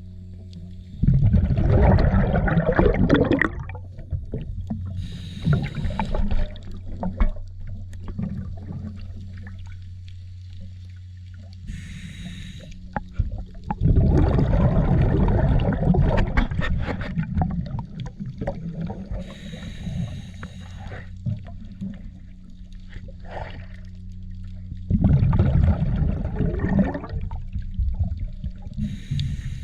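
Boat engine running with a steady low hum, broken three times by louder rushing surges of noise: near the start, about midway and near the end.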